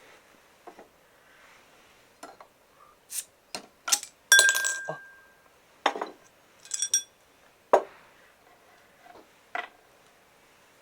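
Clinking and knocking of tableware: a run of sharp taps and clinks, with the loudest one about four seconds in ringing on for about a second.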